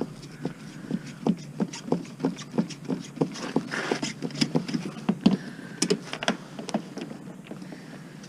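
Hand tools and metal parts clicking and knocking irregularly while a dishwasher motor is worked loose, with a brief scraping rush about four seconds in.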